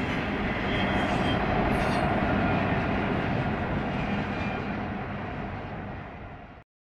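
Diesel locomotives on a double-stack intermodal freight train running past, a steady engine drone and rail noise that swells and then fades as they move away, cut off suddenly near the end.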